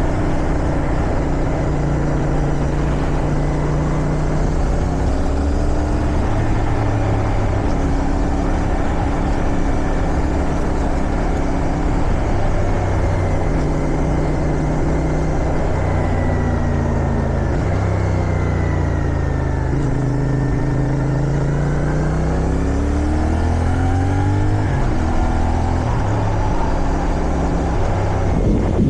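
Motorcycle engine under way, with wind rushing over the helmet microphone. Early on the engine pitch steps up through a few gear changes. It then falls as the bike slows, lowest a little past the middle, before rising again under acceleration near the end with another couple of shifts.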